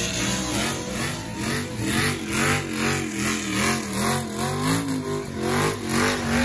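Car engine revved over and over, its pitch rising and falling about twice a second, and cutting off abruptly at the end.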